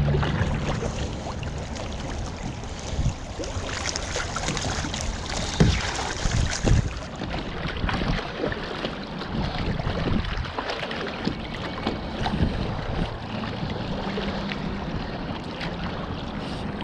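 Water sloshing and splashing around a stand-up paddleboard under paddle strokes, with wind buffeting the microphone. A few louder irregular knocks come about three, five and six seconds in.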